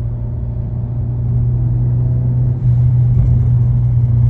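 Ford Focus ST engine running steadily at mid revs, the range around 3000–3500 rpm where it rattles. It grows a little louder about two and a half seconds in.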